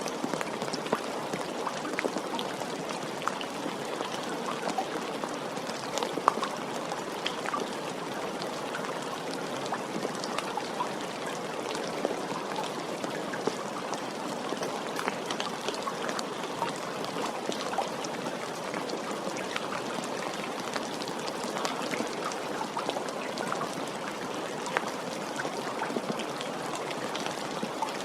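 Steady rain falling, with many small separate drops ticking on a surface over the even wash of the downpour.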